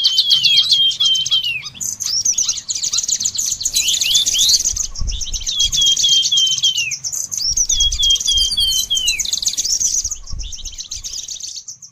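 Songbirds singing: phrases of quick, curved whistled notes sliding down in pitch, repeated every two seconds or so over a continuous high rapid trill, fading out near the end.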